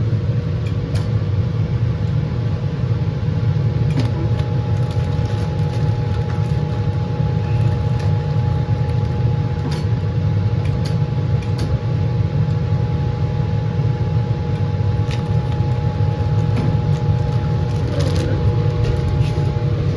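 Laminar flow hood blower running steadily, a low roar with a faint steady hum in it. Scattered light clicks from handling come through here and there.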